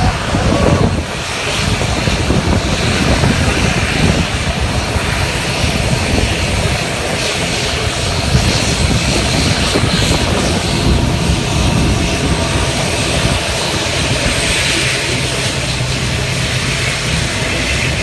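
A departing airliner's engines running at high power: a loud, steady rush of engine noise with no letup.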